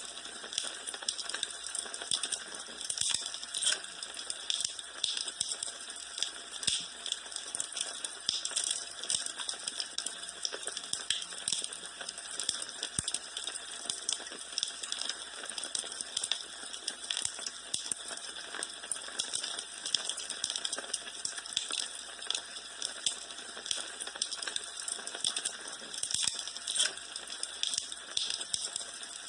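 Wood fire burning in a fireplace, with continuous irregular crackling and snapping over a soft hiss.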